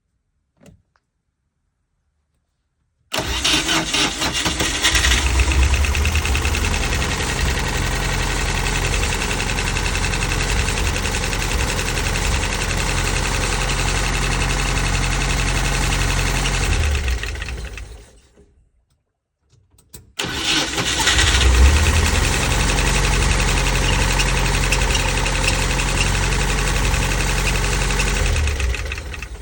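ZMZ-402 inline-four petrol engine, fitted with a dual-circuit ignition and a 1908.3706 distributor, starting about three seconds in and idling steadily. It is shut off after about fifteen seconds, restarted about two seconds later, idles steadily again and is shut off near the end.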